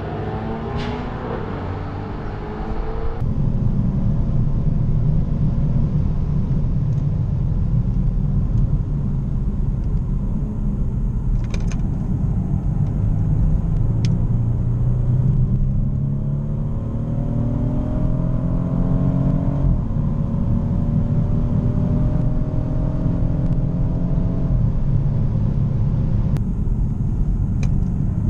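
BMW car engine heard from inside the cabin under hard acceleration on track. The engine pitch climbs in long pulls and drops back at each upshift, over a steady low rumble of engine and road. For the first three seconds a car engine rises in pitch with a thinner, brighter sound, as if heard from outside the car.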